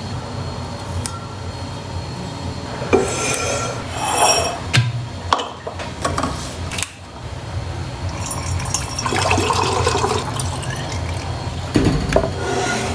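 Liquid running and splashing, with a few sharp clinks and knocks of glass and dishes.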